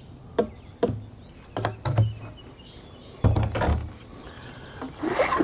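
A few separate sharp knocks and clunks, about five over four seconds, the loudest about three seconds in: equipment being handled and set down.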